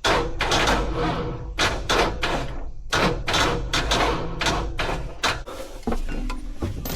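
Stalled tractor's diesel engine being cranked by its starter without catching: a rough, uneven chugging of about two to three strokes a second. The owner takes the tractor to be out of diesel, and the cranking is running the battery down.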